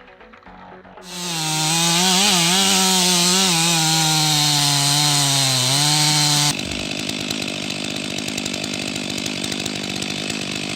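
A two-stroke chainsaw starts cutting at high revs about a second in, its engine note wavering and then dropping as it loads up in the wood. About six and a half seconds in, the sound cuts abruptly to a quieter, steadier running saw.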